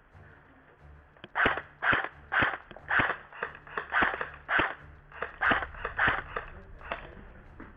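Airsoft electric guns firing single shots, about a dozen sharp cracks roughly two a second, starting about a second and a half in and stopping near the end.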